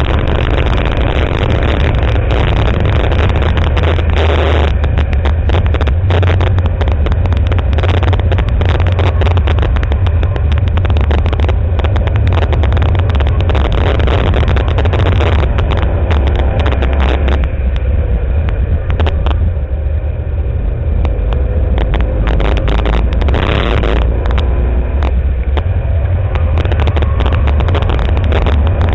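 Ford Mustang GT's V8 running hard at track speed, heard from inside the cabin with heavy wind and road noise over it. The sound drops a little for a few seconds past the middle, then comes back up.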